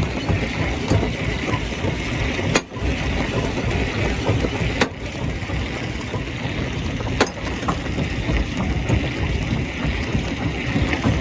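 Stone crusher plant running under load: a steady low rumble with a dense, irregular clatter of rock being crushed and tumbling.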